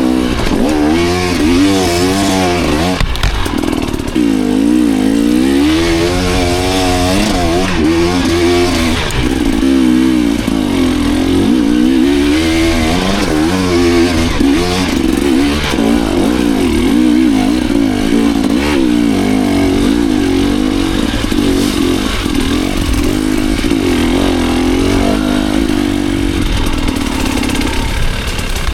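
Dirt bike engine under a riding load, its pitch rising and falling again and again as the rider works the throttle and gears along a trail.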